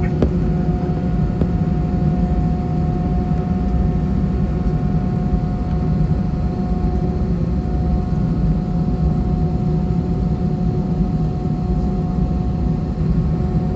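Airbus A319 engines heard inside the passenger cabin: a steady deep rumble and rush with a constant whine.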